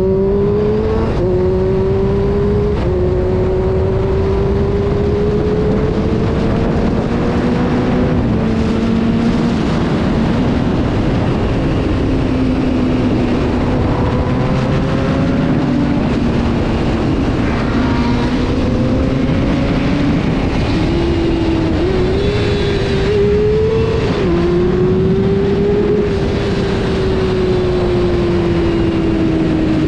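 Honda CBR600 F4's inline-four engine under way, its note climbing and then stepping down at a gear change about a second in. The pitch then holds and slowly rises and wavers, easing down near the end.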